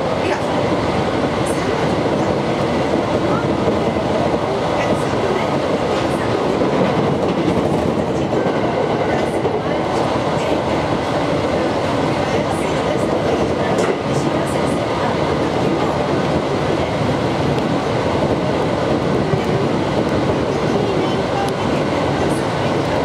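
Cabin noise of an Aoimori Railway 701 series electric multiple unit running at speed: a steady rumble of wheels on rail, with a few faint ticks.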